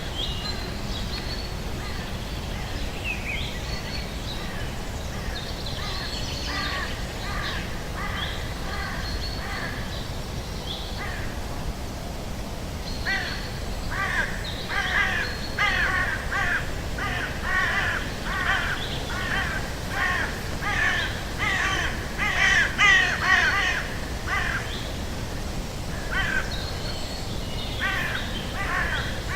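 Birds calling: a few scattered calls, then from about halfway a long run of harsh calls repeated in quick series, over a steady low rumble.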